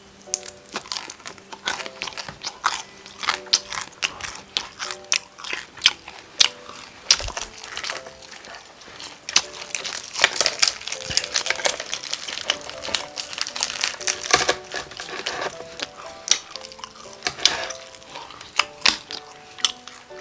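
Close-up crunching and chewing of crispy Korean whole fried chicken: many sharp, irregular crunches of the fried crust, over soft background music.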